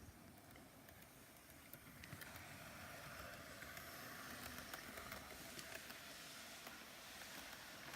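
Faint whir of a Hornby Class 73 model locomotive's DC motor and wheels running slowly on the track, with a few light clicks, growing a little louder about two seconds in.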